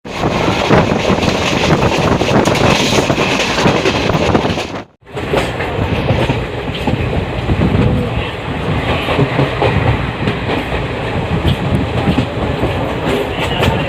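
Indian Railways express passenger coach running at speed: a steady clatter of wheels over the rail joints with rushing noise. It cuts out briefly about five seconds in, then carries on.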